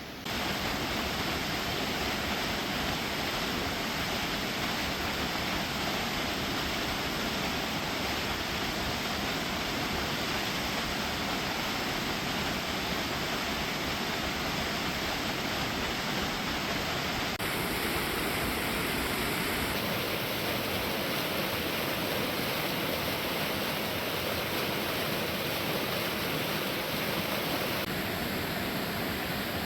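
Waterfall's rushing water: a steady, even rush that comes in suddenly right at the start and shifts slightly in tone a few times.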